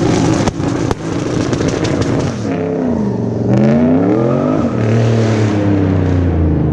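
Turbocharged V8 engine in a swapped BMW E46 M3 running hard. It cuts out briefly twice, about half a second and a second in. Then its pitch falls and climbs again, drops suddenly about two-thirds of the way through, and holds a steady lower note.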